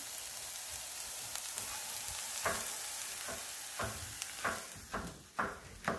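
Onion, garlic and ginger sizzling in a frying pan. From about two and a half seconds in, a knife chops ginger on a cutting board in quick, slightly uneven strokes, about two a second.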